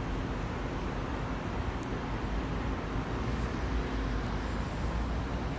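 Steady hum of distant traffic and street background noise, with no engine revving or sudden events.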